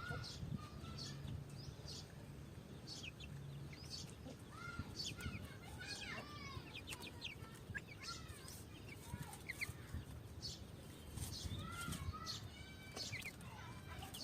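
Mother hen with her chicks: the chicks peep over and over in short, high, falling chirps, with the hen's soft clucking underneath, all faint.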